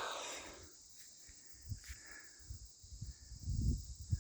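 Steady high-pitched insect chorus, like crickets, with a short rush of noise at the start and scattered low thumps, the loudest about three and a half seconds in.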